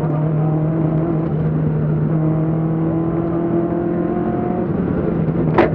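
Onboard sound of a BMW 2002 Ti rally car's four-cylinder engine running hard at steady revs, with road and wind noise. A single sharp click near the end.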